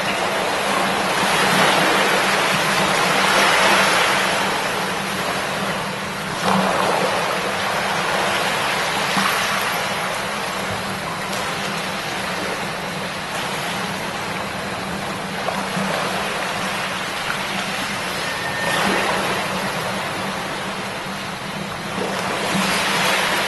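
A shallow river murmuring, a steady rush of running water that swells and eases every few seconds.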